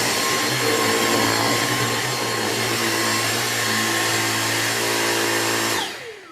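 Dyson V6 Absolute cordless stick vacuum running steadily while vacuuming a mattress, then switched off near the end, its motor whine falling away as it spins down.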